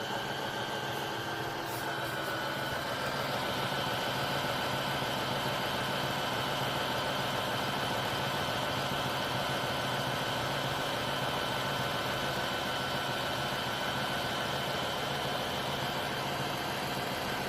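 Tineco iFloor 5 Steam wet-dry floor cleaner running its self-cleaning cycle in the dock, at the brush-roller cleaning stage: a steady motor hum with a thin whine over it.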